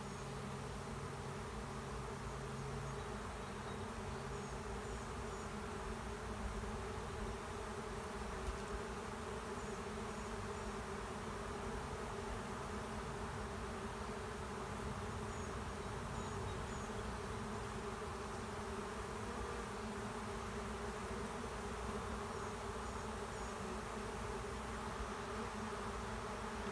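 Steady buzzing hum of a honey bee swarm, thousands of bees flying together in the air as the swarm moves into an empty hive.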